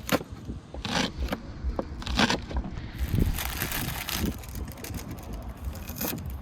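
Cookware and utensils being handled while food is prepared: a few sharp knocks and scrapes, with a stretch of hiss about three seconds in.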